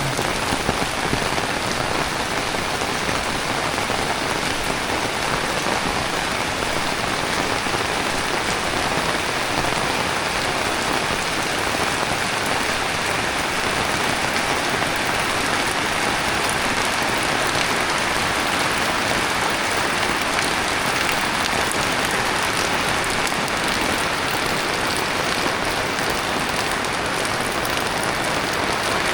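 Heavy tropical rain falling steadily, a dense, even hiss of rain on surfaces.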